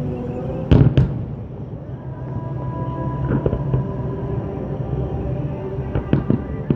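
Aerial fireworks bursting: two loud bangs about a second in, then a few smaller cracks near the end, over music.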